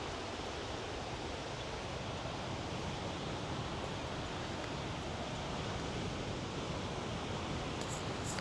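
Powerful waterfall pouring heavily: a steady, even rush of falling water.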